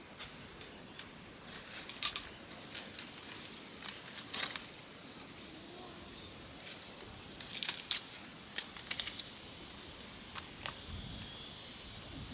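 Pruning shears snipping, with a dozen or so sharp irregular clicks as dragon fruits are cut from the cactus stems, over a steady high-pitched insect chorus.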